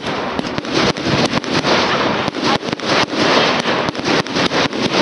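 Fireworks going off: a dense run of bangs and crackling, several reports a second without a break.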